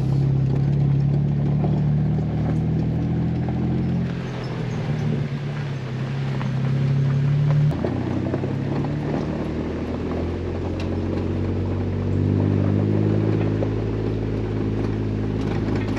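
Jeep Wrangler engine running as the Jeep drives, its note changing pitch several times, with a sudden shift about eight seconds in.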